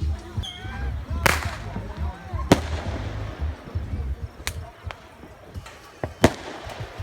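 Fireworks going off: four sharp bangs spread through a few seconds, over a background of more distant popping and crackle.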